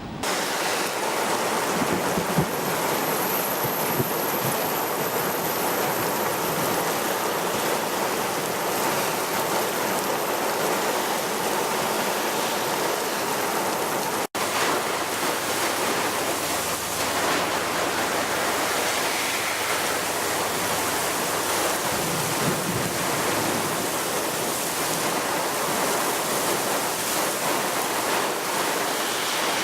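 Steady rushing of water during heavy rain, an even hiss with no breaks except one brief drop-out about halfway through.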